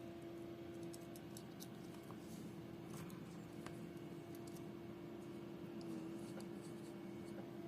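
Faint scattered clicks and light scrapes of small tools working inside a smartwatch, over a steady low hum.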